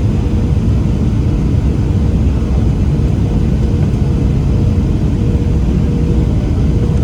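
Cabin noise of a Boeing 737-700 with CFM56 engines: a loud, steady rumble of engines and airflow with a faint steady hum on top.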